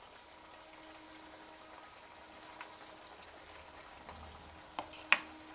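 Sooji-potato tikkis frying in hot oil in a pan, a steady bubbling sizzle, with two sharp clicks near the end.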